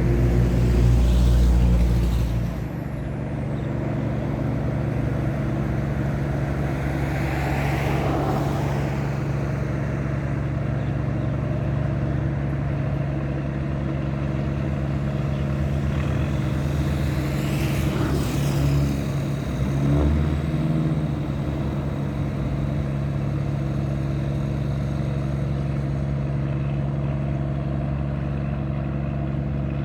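Tugboat's diesel engine running steadily while towing a train of river barges. Louder swells of passing noise rise and fade near the start and at about 8 and 18 seconds in.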